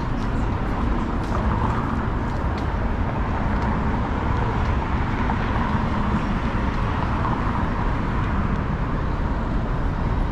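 City street ambience: a steady rumble of traffic with no single event standing out.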